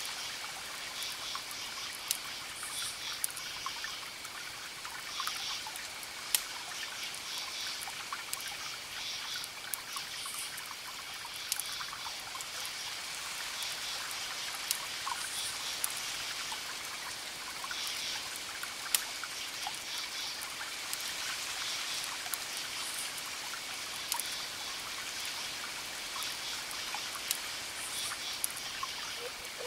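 Crackling fire ambience: a steady hiss with occasional sharp pops, layered with short bursts of high chirping that repeat irregularly.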